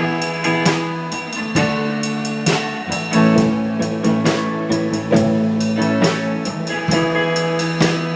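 Live blues-rock band playing: electric guitar chords ringing over a steady drum-kit beat.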